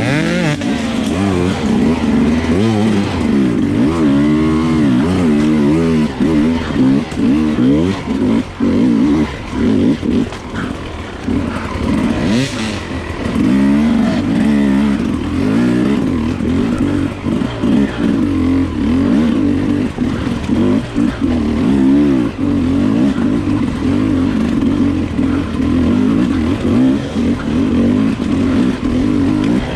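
Enduro dirt bike engine revving up and down constantly as the throttle is opened and closed on a trail ride, with a brief sharp noise about twelve seconds in.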